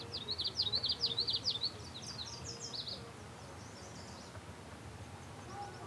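A songbird singing a fast run of sharp, high chirping notes for about three seconds, followed by a fainter few notes a little later, over a steady low outdoor background.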